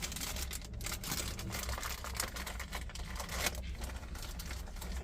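Rustling, crinkling and quick small clicks and taps of hands working small parts and a screwdriver while fitting boiler ignition and flame-sensing electrodes, over a steady low hum.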